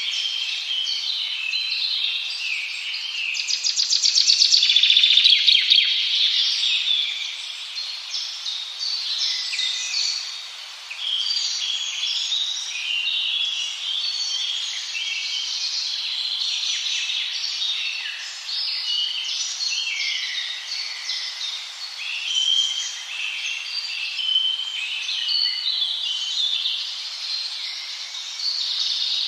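A dense chorus of many songbirds chirping and warbling at once, high-pitched and unbroken. A louder, fast trill swells up about three seconds in and fades a few seconds later.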